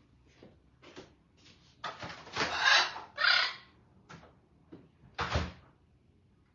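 A door being handled: scattered clicks and knocks, a louder scraping stretch about two seconds in, then a heavy thump about five seconds in as it shuts.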